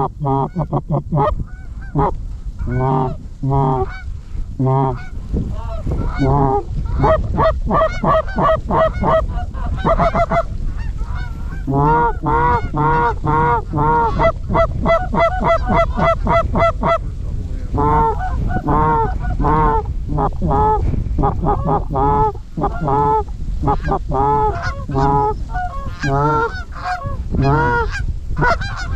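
Rapid, continuous goose honking and clucking, many calls overlapping, over a low rumble of wind on the microphone.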